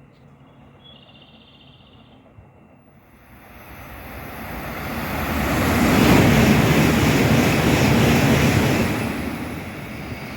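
Sanyo Shinkansen bullet train passing through the station at high speed: a rushing noise of air and wheels that builds from about three seconds in, holds at its loudest for a few seconds, then fades near the end.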